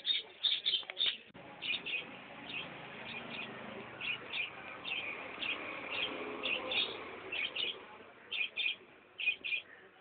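Small pet birds chirping: short, high chirps repeating irregularly, several a second at times, over a steady background hiss.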